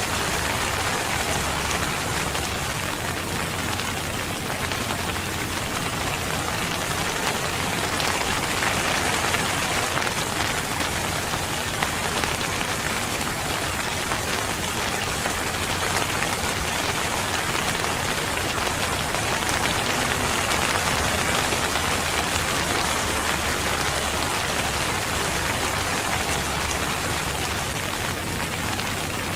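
Steady rain falling on a surface, a dense even hiss of drops.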